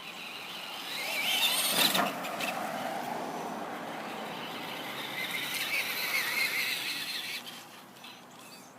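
Traxxas Maximum Destruction RC monster truck's electric motor and gears whining as it is driven, rising about a second in and wavering up and down with the throttle, with a sharp knock near two seconds in; the whine fades out about seven and a half seconds in.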